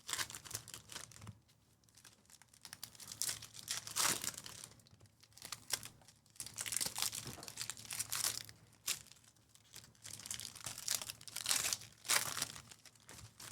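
Plastic wrappers of 2024 Panini Donruss Baseball hobby card packs being torn open and crinkled by hand, in irregular rustling bursts.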